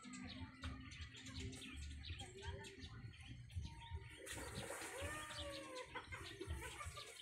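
Faint bird calls, with a few rising-and-falling calls from about four seconds in, over a high hiss that comes in around the same time.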